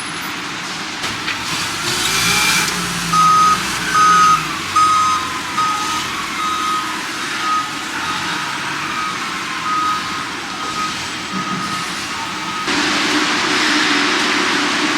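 Reversing alarm of an airport ground vehicle beeping at an even pace, a little over one beep a second, over a steady rush of airport noise. The beeping starts a few seconds in and stops near the end.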